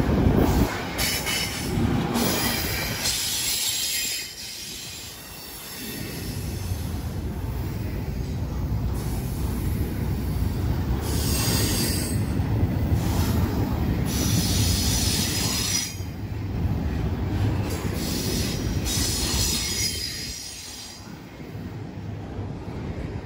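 Double-stack intermodal freight train's well cars rolling past: a steady low rumble of wheels on the rails, with high-pitched wheel squeal coming and going several times.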